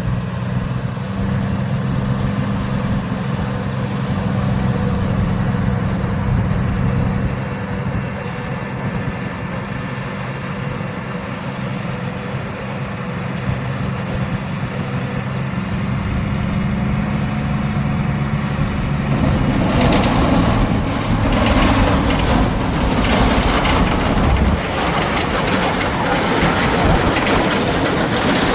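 Freightliner cabover truck's diesel engine running steadily. About 19 seconds in, the sound turns louder and rougher, with a broad rattling noise over the engine.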